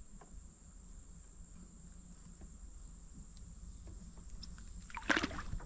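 Faint water lapping against a kayak, under a low steady rumble of light wind on the microphone, with a few faint clicks and a short louder burst of noise near the end.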